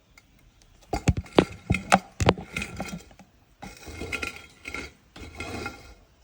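Cooking pots, utensils and dishes being handled: a quick run of clinks and knocks in the first couple of seconds, then three short stretches of rougher, noisier handling sound.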